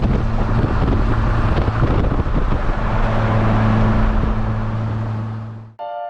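Polaris Slingshot driving at a steady speed: a steady engine hum under heavy wind noise buffeting the microphone in its open cockpit. It cuts off suddenly near the end, and piano-like music starts.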